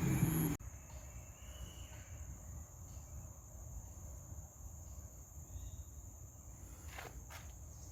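A louder low sound cuts off abruptly half a second in, leaving a steady high insect drone over faint background hum. A couple of faint chirps come through, and a few light clicks, likely footsteps, sound near the end.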